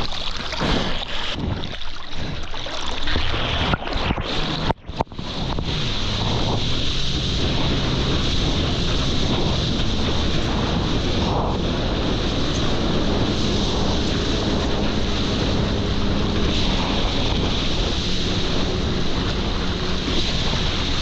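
Jet ski running over water, with wind buffeting the microphone and water rushing. The first few seconds are choppy and broken, with a brief drop near 5 s; from about 6 s in it settles into a steady loud roar with a low engine hum underneath.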